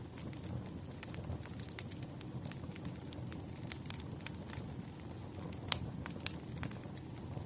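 Wood fire crackling: irregular sharp pops and snaps over a steady low rumble of burning logs, with the loudest pops a little before six seconds and just after.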